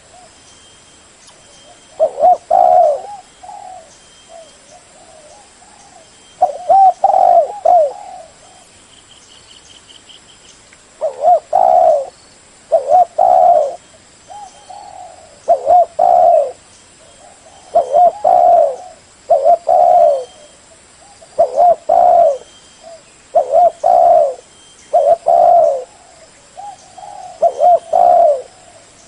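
Spotted dove cooing: loud, repeated low coo phrases, a pause of a few seconds after the opening calls and another around the middle, then calls coming about once a second or two. Faint high bird chirps sound behind it.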